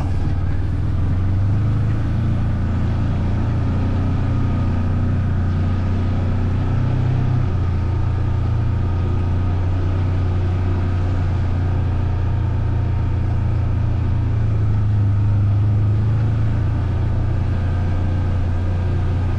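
Engine of a four-wheel-drive off-road vehicle running steadily while driving, a low drone that swells slightly now and then.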